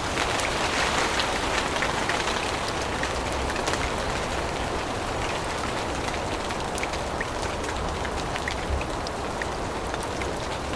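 Steady rain falling in a forest, drops hitting leaves with many scattered sharp ticks over a constant hiss and a low rumble beneath.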